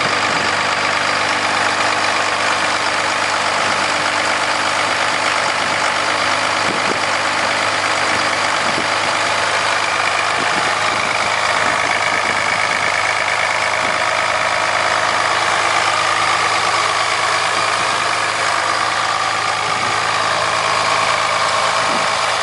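Cummins 24-valve 5.9-litre inline-six turbo diesel in a 2003 Dodge pickup, idling steadily shortly after a cold start.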